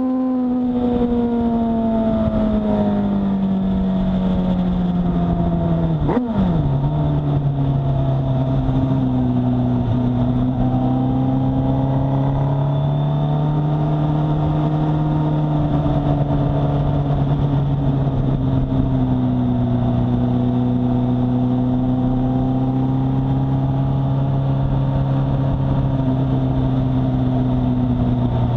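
Sport motorcycle engine heard from onboard as the bike slows. The pitch falls steadily for about six seconds, then there is a sharp click, and after it the engine runs steadily at low revs. Wind rushes past throughout.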